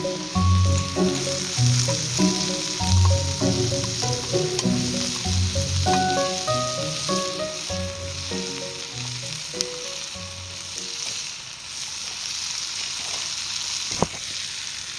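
Food sizzling as it fries in a pan over a wood fire, a steady hiss throughout. Background music with a bass line plays over it and fades out about ten seconds in; a single sharp click comes near the end.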